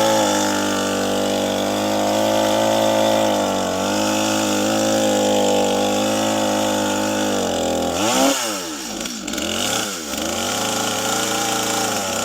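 Two-stroke chainsaw running at a steady high speed, then about eight seconds in its engine speed drops and swings up and down for a couple of seconds before settling into a steady run again.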